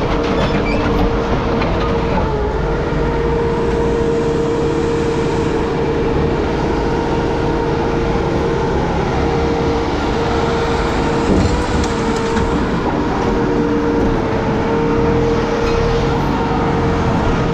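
Heavy machinery running steadily, a constant mechanical rumble with a steady high hum over it.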